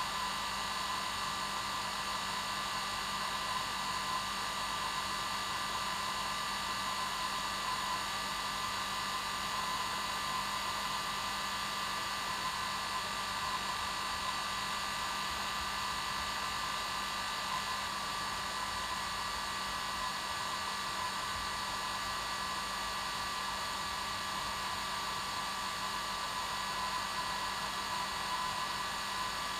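Hair dryer running continuously: a steady blowing noise with a constant motor whine.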